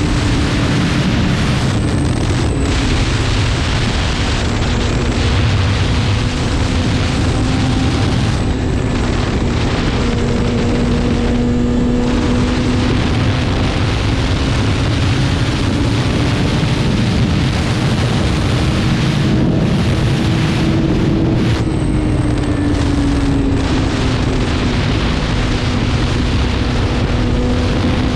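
BMW S1000RR's inline-four engine running at a steady cruise, its note drifting slowly up and down with small throttle changes, under heavy wind rush on the microphone.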